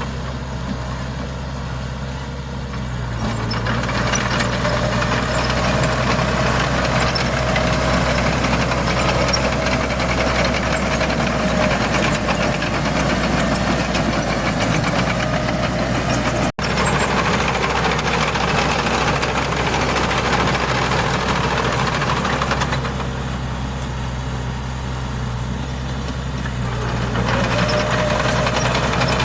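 Bulldozer's diesel engine running under load, easing to a lower, quieter note for a few seconds near the end before working up again, with a faint whine rising as the load returns. The sound cuts out for an instant just past halfway.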